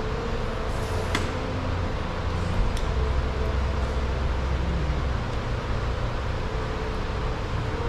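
Steady low rumble and hiss, swelling in the low end for a few seconds, with a few light clicks.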